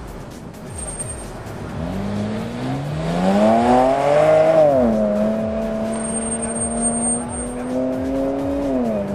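Porsche 993's air-cooled flat-six pulling hard on an autocross course, its pitch climbing for a couple of seconds as it nears. The pitch drops sharply about halfway as the car goes by, then holds steady and drops again near the end.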